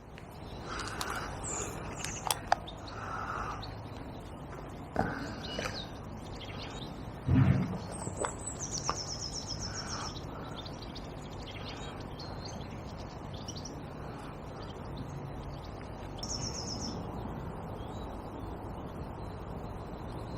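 Small birds chirping, with a rapid high trill about eight seconds in and another about sixteen seconds in, over a steady low background noise. A few sharp knocks cut in, the loudest about seven seconds in.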